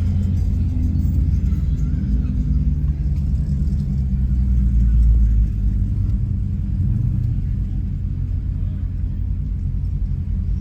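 Low rumble of a Dodge Challenger Scat Pack's 6.4-litre HEMI V8 heard from inside the car while driving. It swells a little about five seconds in, then eases off.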